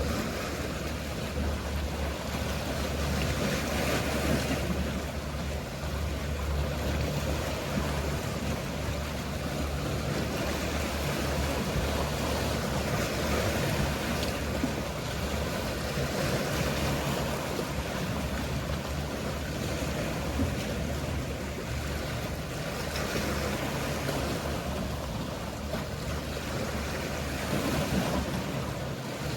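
Mediterranean sea waves washing in, the hiss swelling and easing every several seconds, over the steady low hum of a boat engine.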